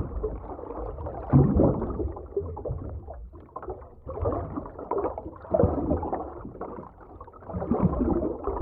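Underwater ocean ambience: the muffled, low rumble and gurgle of moving water, swelling and ebbing every second or two.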